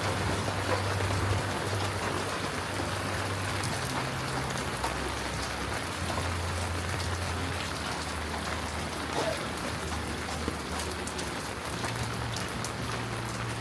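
Heavy rain falling in a steady hiss, with fine drop ticks, and a low hum underneath that steps in pitch every second or two.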